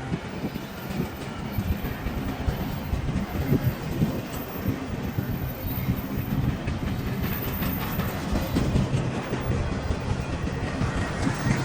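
Train passing close by, its wheels clattering in a steady run of knocks over the rails, over a low steady drone.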